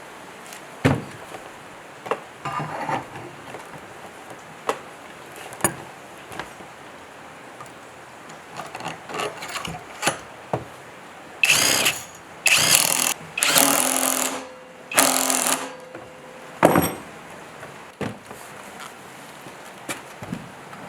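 Workshop tool sounds: scattered knocks and clicks of tools and parts being handled. About halfway through, a power tool such as a drill runs in four short bursts.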